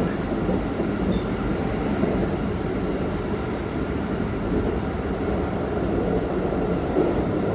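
Keikyu 1500 series electric train running, heard from inside the car: a steady rumble of wheels on rail with faint steady tones from its Toyo GTO-VVVF traction equipment.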